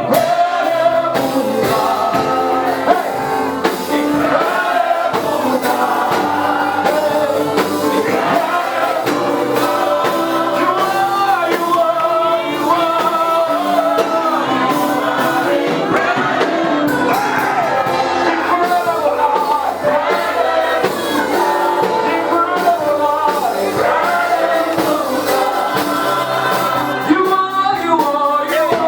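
Live gospel praise music: singing with instrumental backing and a steady beat.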